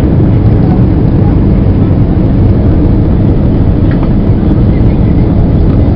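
Steady, loud engine and airflow rumble inside the cabin of an easyJet airliner during its approach to land.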